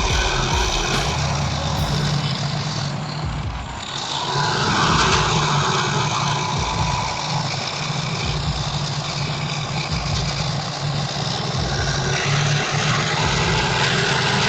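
A heavy vehicle's engine running steadily, a loud low drone with a lot of hiss over it, easing briefly about four seconds in.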